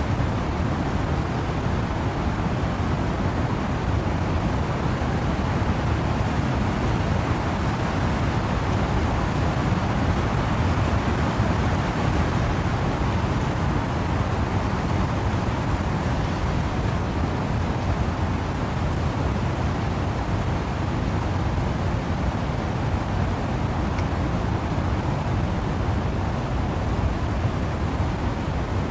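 Steady wind and rain noise, a constant rushing wash with a heavy low rumble and no distinct drops or gusts standing out.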